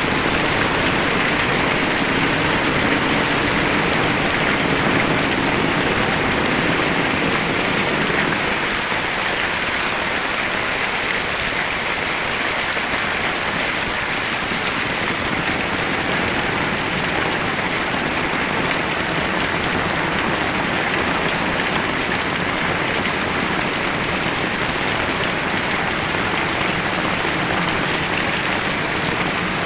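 Very heavy rain pouring steadily, easing slightly about eight seconds in.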